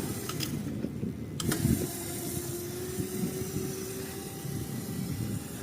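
Dirt bike engine running at a steady pitch under wind rumble on the microphone, with a few light knocks about a second and a half in.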